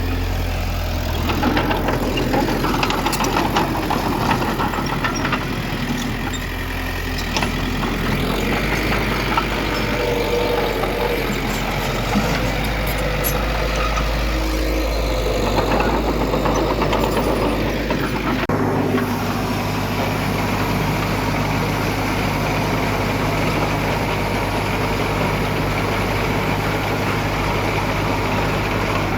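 Heavy diesel earthmoving machinery, a bulldozer and dump trucks, running steadily under work. The low engine note shifts abruptly about two-thirds of the way through, as a machine changes speed or another takes over.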